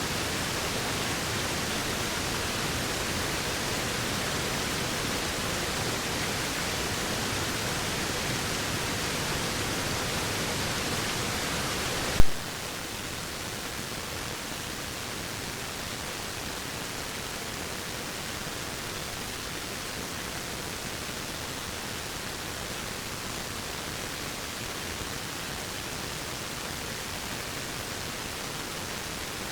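Waterfall rushing as a steady, even hiss. About twelve seconds in there is a single sharp click, after which the rush carries on a little quieter.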